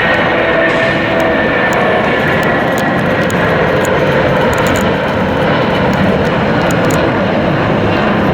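Jet airliner engines running loud and steady: a dense rushing noise with faint steady whining tones on top.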